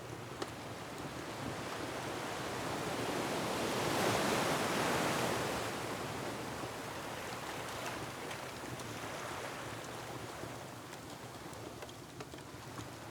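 An ocean wave surges in, rising to a peak about four seconds in and then slowly washing away, over faint scattered pops of a crackling wood fire.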